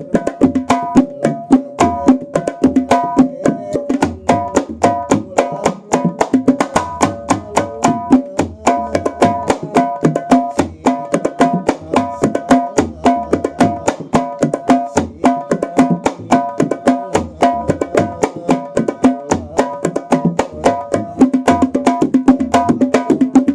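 Newly made tirintit, a small Sundanese terbang frame drum, played in a fast, steady rhythm of ringing strikes, with deeper drum strokes underneath.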